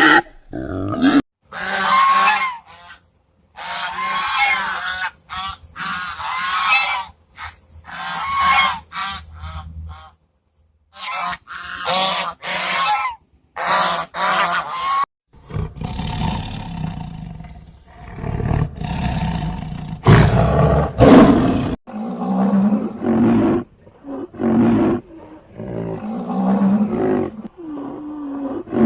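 A string of short animal calls in quick succession, broken by abrupt cuts between clips, with a rougher, noisier stretch about halfway through.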